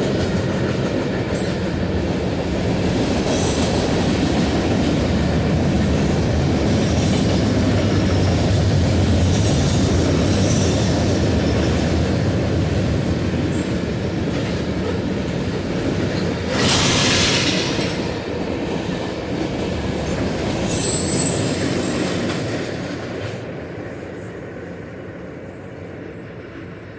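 Freight train of loaded autoracks rolling past: a steady rumble and clatter of wheels on rail, with high-pitched wheel squeal flaring twice about two-thirds of the way through. The sound then fades toward the end.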